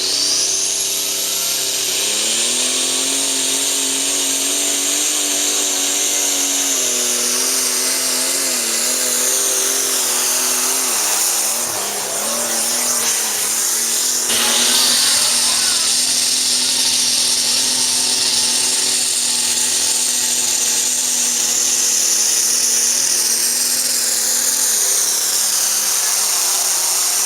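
A light limited super stock pulling tractor making a pass. Its engine holds near full revs, with a high-pitched turbocharger whine over the engine note. The engine note climbs in the first two seconds and then holds with small wavers, dipping briefly about halfway through.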